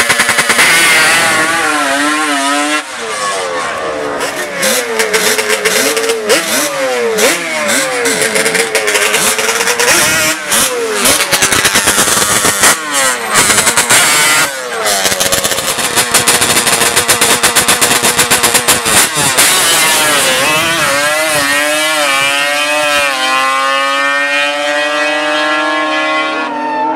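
High-revving racing engines, revved hard again and again with the pitch swooping up and down and crackling. Near the end the pitch climbs steadily several times, as on a hard run through the gears.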